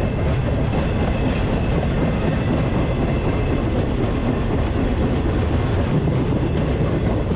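Freight train rolling along, heard from aboard one of its cars: a steady, loud rumble and clatter of wheels on rails.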